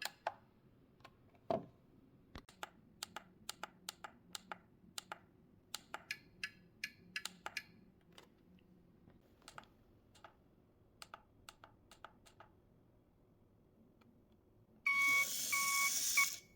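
Irregular clicks of the RC transmitter's buttons and switches, sometimes several a second, as the truck's lights are cycled. Near the end, a loud electronic buzzing tone for about a second and a half, briefly broken twice.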